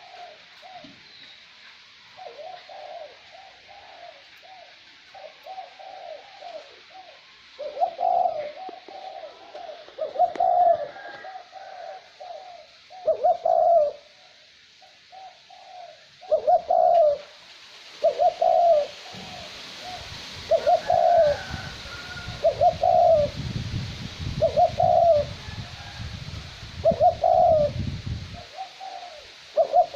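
Male spotted dove cooing over and over: short, low, hollow coo phrases that grow louder after the first several seconds and then come about every one and a half to two seconds. Light wind hisses behind it, with a low rumble of wind on the microphone during the second half.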